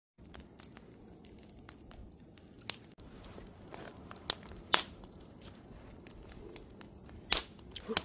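Wood campfire burning: a steady low rustle of flames with irregular sharp crackles and pops from the burning wood, a few much louder snaps among them.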